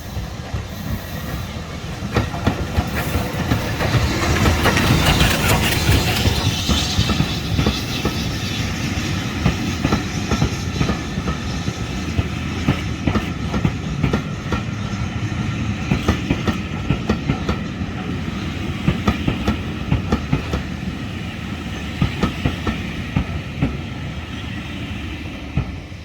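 Train running on rails, its wheels clattering over rail joints with frequent sharp knocks. Loudest about four to seven seconds in.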